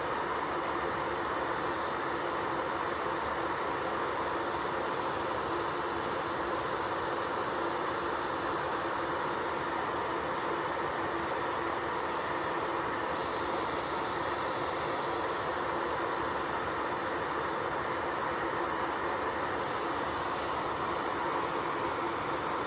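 Electric nail drill (e-file) running steadily with a constant whir and hiss, as used to remove old gel polish.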